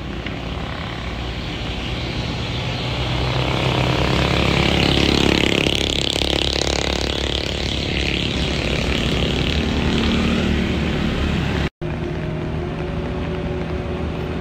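Vehicle engine climbing a steep hill, getting louder as it passes close, loudest about five to seven seconds in with a whine that rises and falls, then easing. The sound drops out for an instant about twelve seconds in, and a steadier engine hum follows.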